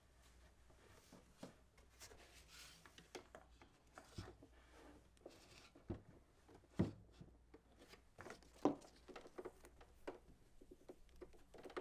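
Faint handling sounds: scattered light clicks, taps and rustles, with a couple of sharper knocks about seven and nine seconds in.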